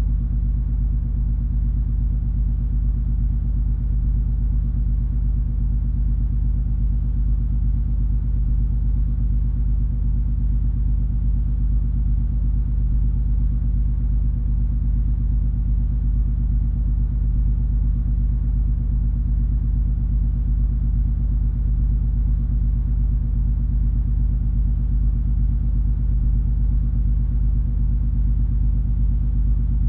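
Steady low drone of the cruise ferry MS Color Magic under way, its engines and hull rumbling with a few steady hum tones and no change in pitch or level.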